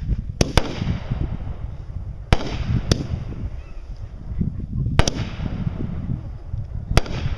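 Fireworks going off: about seven sharp bangs at uneven intervals, some in quick pairs, over a continuous low rumble.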